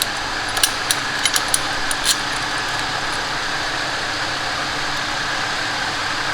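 A wrench clinking against a metal line fitting several times in the first two seconds, over a steady mechanical hum.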